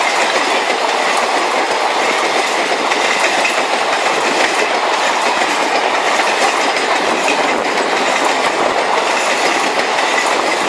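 Indian Railways train running on the rails: a steady, loud rattle and rush of wheels on track with a clickety-clack.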